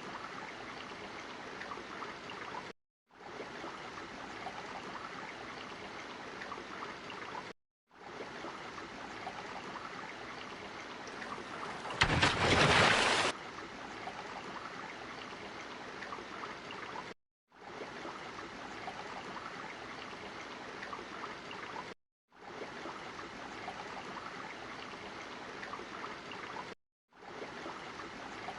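Steady rushing-water sound effect, broken by brief silent gaps every few seconds where the loop restarts. There is one louder surge of water for about a second, roughly twelve seconds in.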